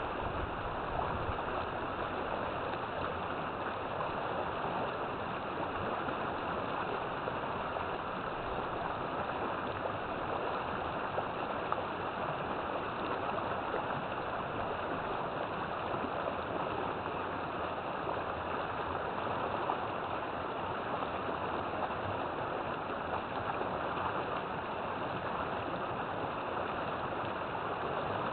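River water flowing over rocks: a steady, even rushing and gurgling.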